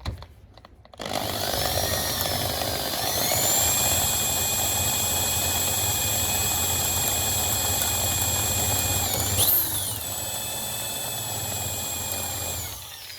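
Electric drill boring a pilot hole for a self-tapping screw. The motor whine starts about a second in, rises as it gets up to speed, and then holds steady. Its pitch jumps briefly a little past the middle, and it winds down near the end.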